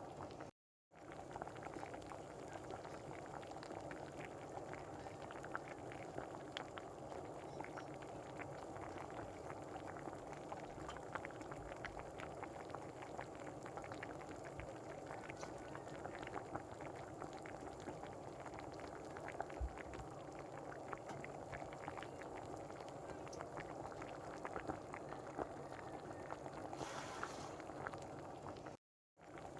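Pork and chicken simmering in a pot of sauce, the liquid bubbling steadily with many small pops.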